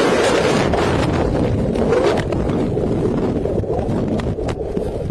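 Loud, steady rushing and buffeting noise on a body-worn camera's microphone, with a few sharp knocks about four seconds in.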